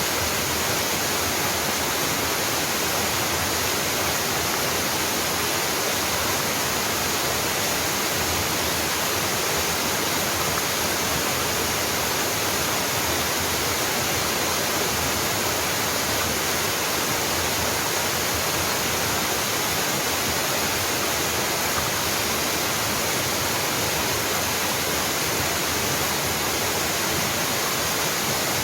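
Waterfall: water falling and splashing in a steady, even rush with a lot of hiss and no change in level.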